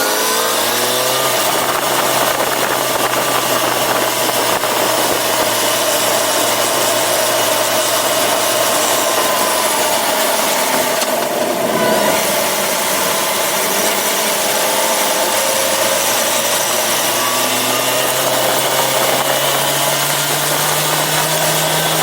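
Yamaha FZ6R sportbike's 600 cc inline-four engine running at steady revs, with a dense rushing noise over it. The revs climb gradually over the last few seconds, and there is a brief burst of noise about halfway through.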